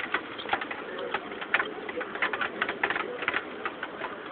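Rain falling, with irregular sharp taps of drops hitting a hard surface.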